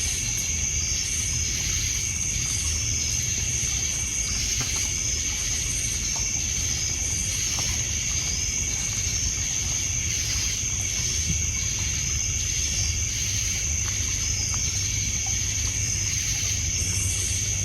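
Night insects, crickets among them, trilling steadily at a high pitch, with a regular pulsing chirp about twice a second, over a low wash of water lapping on a pebble beach and a few faint crackles from the campfire.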